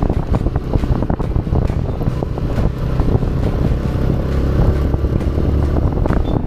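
TVS Raider 125's single-cylinder four-stroke engine running steadily at low revs, with wind buffeting the microphone and frequent short knocks and rattles throughout.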